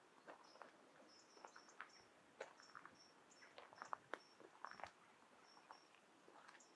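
Faint birdsong at dawn: a thin, high-pitched note repeated several times a second, among scattered short chirps and clicks.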